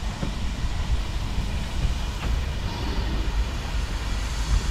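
Steady low rumble of a railway carriage in motion, with no distinct clicks, chuffs or whistle standing out.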